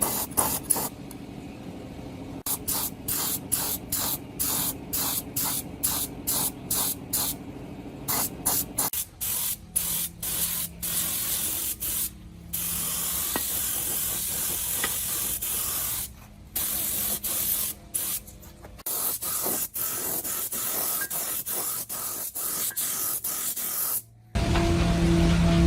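Hiss of a spray being released in many quick short bursts, then in longer steady passes with brief pauses. Music starts suddenly near the end.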